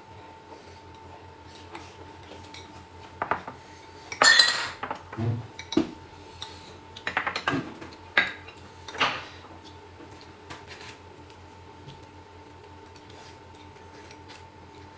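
Cutlery clinking and knocking against dishes in a string of strikes over a few seconds, loudest about four seconds in, where one strike rings briefly.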